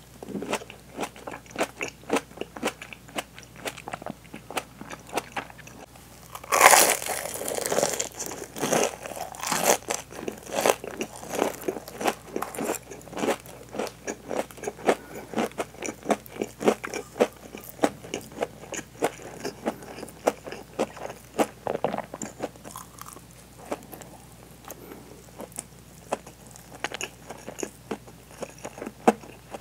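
A person biting and chewing deep-fried, breaded hanpen fish cake with a cheese filling, the fried coating crunching with many short crackles, loudest in one big crunchy bite about seven seconds in.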